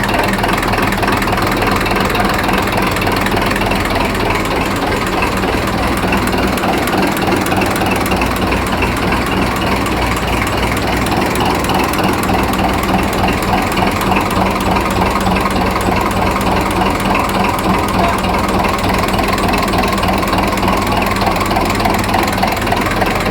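A machine running steadily: a motor hum with a fast, even mechanical rattle.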